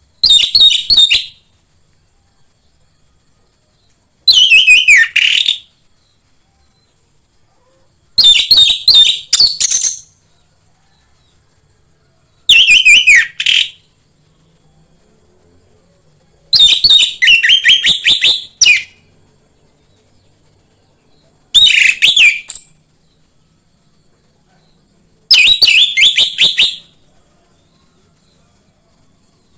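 Orange-headed thrush (anis merah) singing in short, rich, varied phrases of one to two seconds each, about every four seconds, over a faint steady high hiss.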